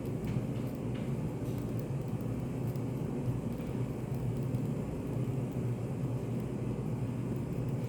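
Study café room ambience used as white noise: a steady low rumble of background room noise, with a few faint light clicks in the first couple of seconds.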